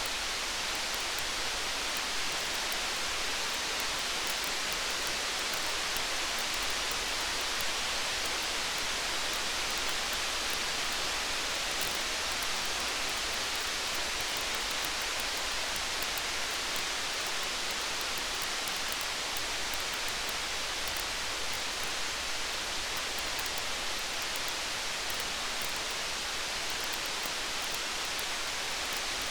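Steady rain, an even hiss without a break, with faint fine ticks scattered through it.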